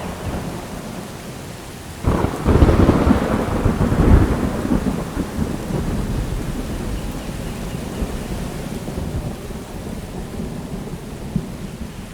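Steady rain falling, with a clap of thunder breaking in suddenly about two seconds in, loudest over the next couple of seconds, then rumbling and fading slowly.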